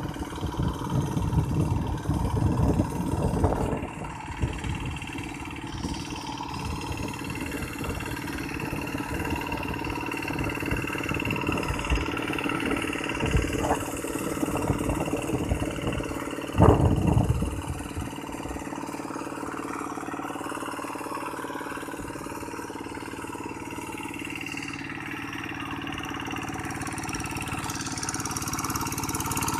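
Tractor engine running steadily, with a heavy low rumble for the first two thirds, a loud sudden knock about 17 seconds in, then a smoother steady hum that grows a little louder near the end.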